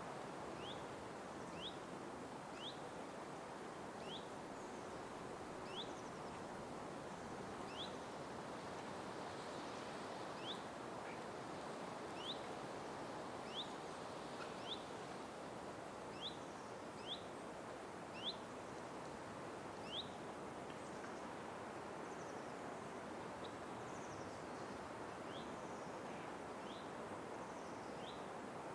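Forest ambience: a steady soft hiss with a bird's short, sharp chirps repeated every second or two, stopping about two-thirds of the way through, then fainter, higher calls near the end.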